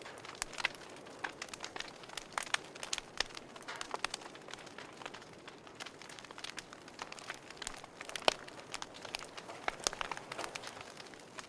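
Wood fire burning in a fireplace, crackling: irregular sharp pops and snaps over a soft steady hiss, with one louder pop about eight seconds in.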